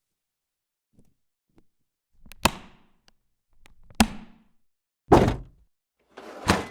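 Heavy single footsteps on a floor: four separate thudding steps, about one to one and a half seconds apart, in otherwise silent surroundings.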